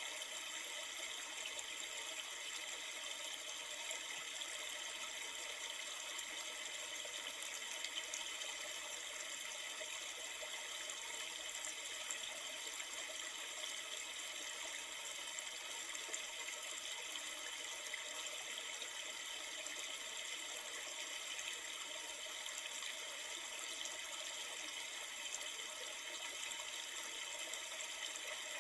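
Steady rushing of flowing river water, with no change throughout.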